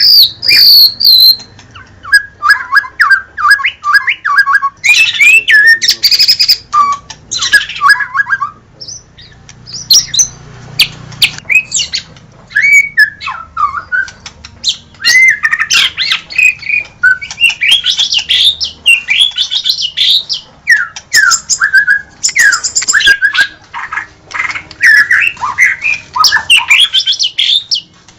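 White-rumped shama (murai batu) singing: a loud, rapid run of varied whistled phrases, trills and chattering notes, broken by short pauses between phrases.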